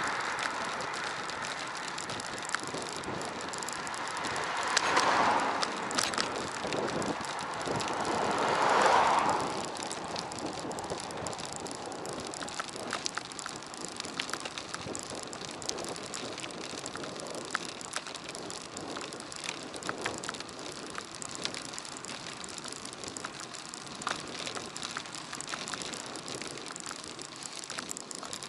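Bicycle being ridden, heard through an action camera riding with it: steady tyre and air noise with scattered clicks and rattles, and two louder swells about five and nine seconds in.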